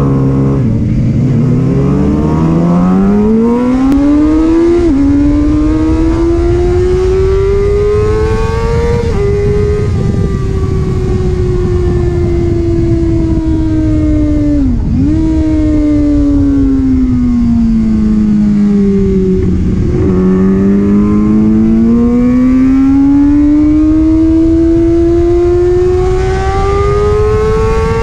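Sport motorcycle engine heard from on board, revving up through the gears with upshifts about 5 and 9 seconds in, its pitch falling slowly as the bike slows for a long stretch, then climbing again from about 20 seconds on. Wind rushes past underneath.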